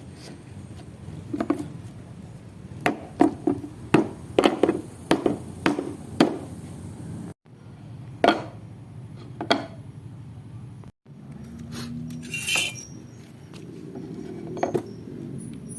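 Sharp knocks and clinks from hand work on hard parts: a quick run of about eight strikes in the first half, then a few scattered knocks, with the sound cutting out abruptly twice.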